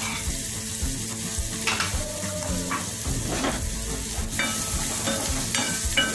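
Chopped garlic and ginger sizzling steadily in a tablespoon of hot olive oil in a nonstick pot, with a wooden spatula stirring them near the end.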